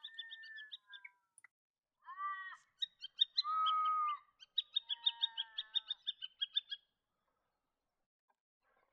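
Yellow-throated miner calling: rapid series of short, high piping notes mixed with a few longer whistled calls, stopping about seven seconds in.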